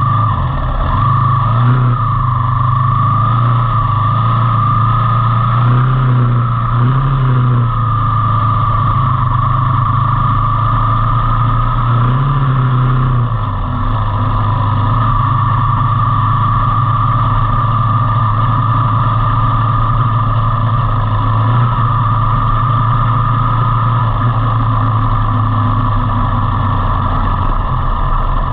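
Motorcycle engine running steadily while riding, with a continuous hum whose pitch wavers slightly in the first half as the throttle changes, and a steady higher whine over it.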